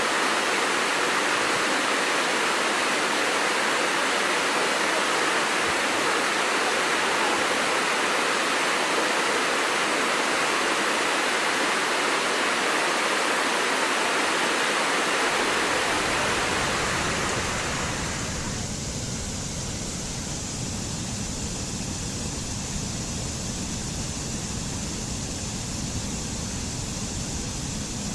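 Steady rushing of running water. About sixteen seconds in it changes to a quieter, deeper rush.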